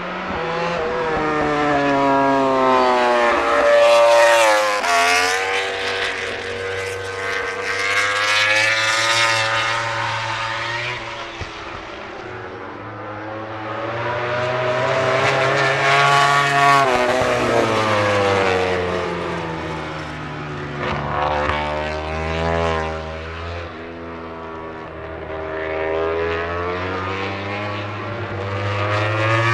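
MotoGP racing motorcycles at speed on track, their engine notes rising and falling through gear changes and braking as they come past. The loudest passes are about four seconds in, around sixteen seconds in, and at the very end.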